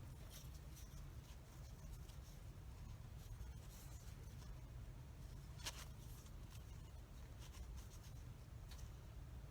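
Faint scratching and light clicks and taps of hands handling cardboard tubes and popsicle sticks while hot-gluing a stick in place, with one sharper click about six seconds in, over a low steady hum.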